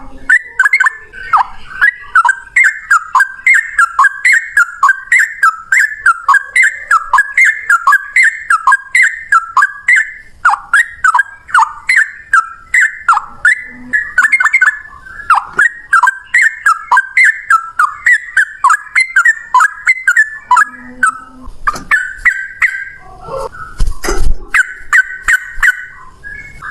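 Yellow-vented bulbul singing a long, fast run of short bubbly whistled phrases, about two a second, in excited fighting song. Near the end the phrases give way to lower, rougher notes and a few sharp knocks.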